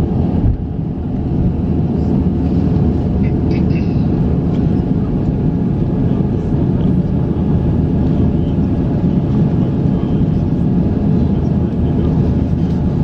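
Steady rumble and hum of an Airbus A350-900's Rolls-Royce Trent XWB engines heard from inside the cabin, with a few constant tones over the low noise. The level holds even, with no rise.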